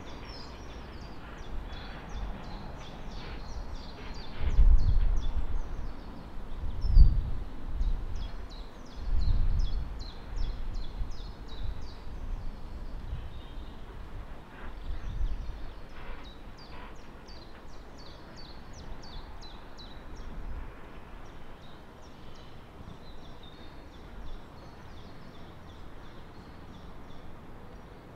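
Small birds singing in runs of quick repeated high notes, over a low background rumble that swells several times in the first half.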